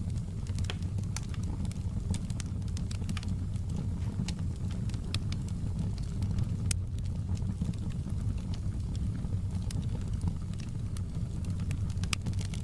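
Campfire burning, with sharp crackles and pops at irregular moments over a steady low rumble; the pops come thicker near the end.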